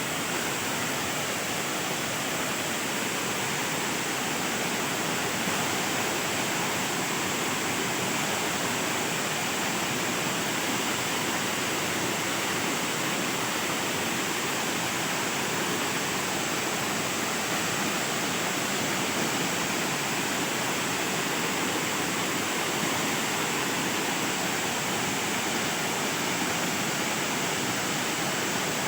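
Jagir waterfall's falling water, a steady, even rush that stays the same throughout.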